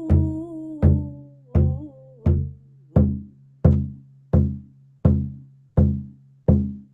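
A hand drum struck in a slow, steady beat, about ten strokes at roughly one every 0.7 seconds, each with a deep ringing boom. A voice hums a wavering line over the first two seconds or so.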